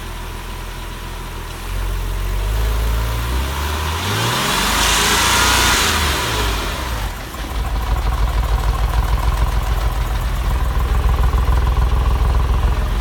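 Porsche 996 flat-six engine revved once and dropped back to idle, then idling roughly with an uneven, pulsing beat. This is a misfire on bank 2 (left tailpipe), which the mechanic takes for a faulty lifter acting up when oil pressure drops at idle.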